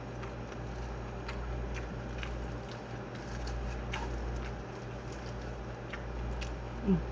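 Close-up mouth sounds of a person chewing a mouthful of rice and side dishes, with soft scattered smacks and clicks, over a steady low hum. A short voiced sound is heard near the end.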